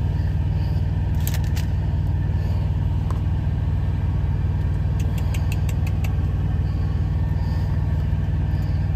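Steady low hum of an idling truck, heard inside the cab, with a few light clicks about a second and a half in and a quick run of small clicks about five to six seconds in.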